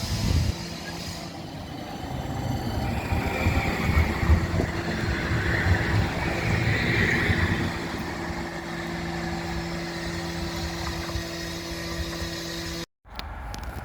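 West Midlands Metro tram near the stop, giving a steady electrical hum over a low rumble, with a hiss rising and fading in the middle. The sound cuts out abruptly for a moment near the end.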